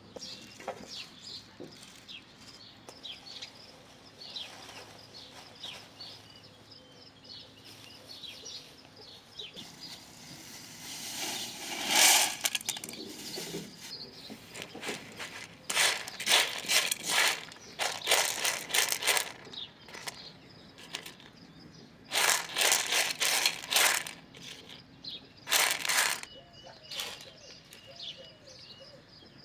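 Small birds chirping, broken by several loud bursts of rustling noise about a third of the way in, in the middle and again near the end.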